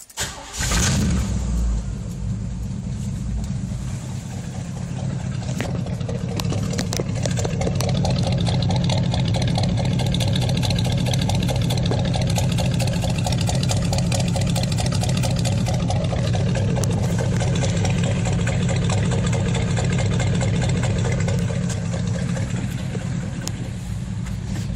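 1985 Chevy C10's 350 V8 through loud dual exhaust, started again right after stalling and catching about half a second in, then idling with the uneven 'classic lope' of an aggressive camshaft. The idle grows somewhat louder over the first several seconds, then holds steady.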